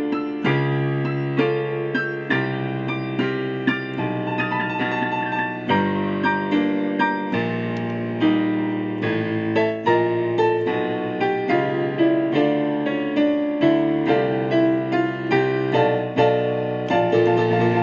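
Solo piano music: a gentle piece with chords and notes struck about twice a second, each ringing and fading.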